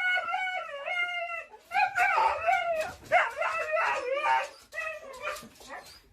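A dog howling in long, wavering calls, three in a row, the last one quivering, then a few fainter short sounds near the end.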